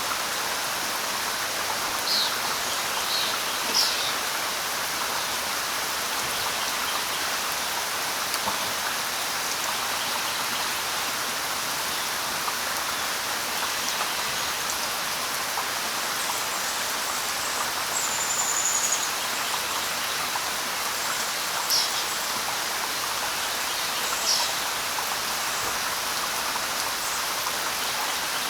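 Steady light rain hissing on leaves and surfaces, with a handful of short bird chirps scattered through it and a brief high trill about two-thirds of the way in.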